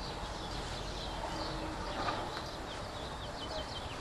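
Outdoor background noise with a quick series of faint, short bird chirps about three seconds in.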